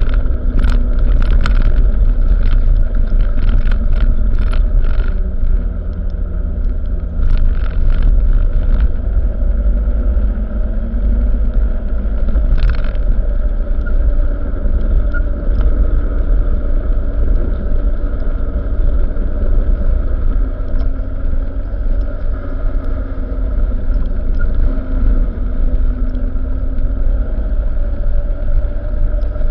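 Truck running, a steady low rumble with a humming drone, with a scatter of sharp clicks or knocks during the first several seconds and once more near the middle.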